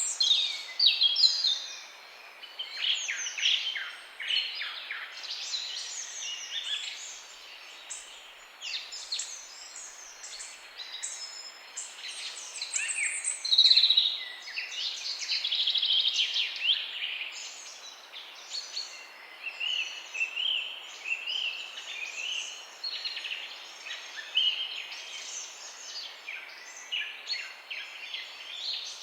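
Many songbirds chirping and singing at once, a dense chorus of overlapping high chirps and trills over a faint hiss.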